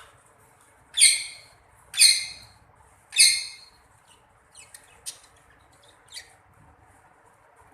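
Birds calling: three loud, harsh calls about a second apart, then a few short, faint chirps.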